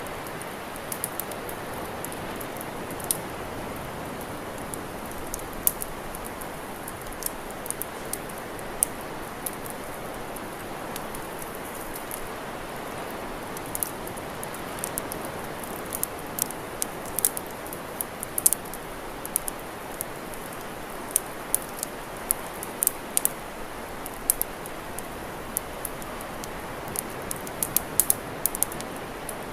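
Campfire crackling: irregular sharp pops and snaps, more frequent in the second half, over a steady hiss.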